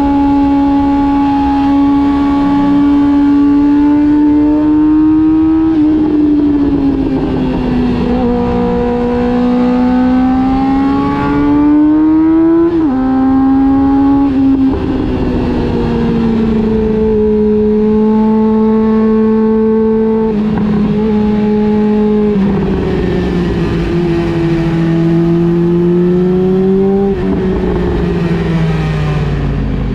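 Honda CB400 Super Four Revo's inline-four engine running under way. Its pitch climbs under acceleration and drops sharply at each gear change, four times. It sinks lower near the end as the bike slows.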